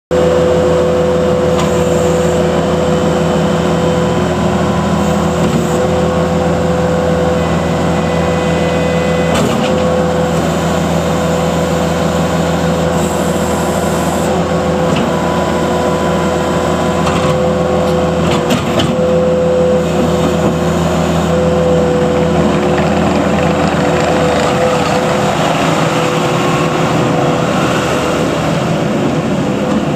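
New Holland C227 track loader's 74 hp FPT diesel engine running at a steady speed, with a constant hum, plus a few brief knocks about a third and two thirds of the way through.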